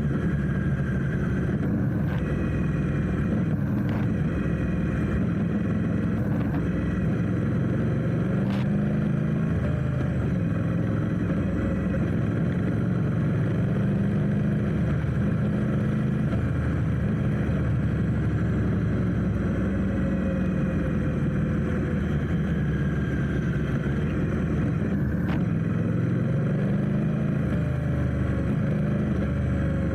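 Steady vehicle engine and road noise while riding through traffic, the engine pitch rising and falling gently, with a few brief clicks.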